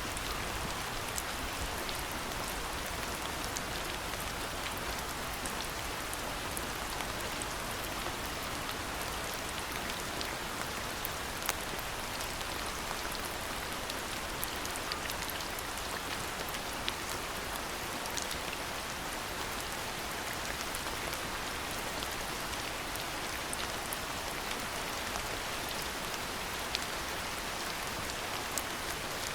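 Steady rain falling on hard surfaces, an even hiss with scattered individual drop ticks close by.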